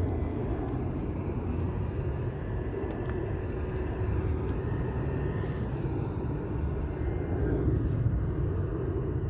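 Boeing 767-300 freighter's two turbofan engines heard from the ground as a steady, even jet rumble while the aircraft climbs out after takeoff.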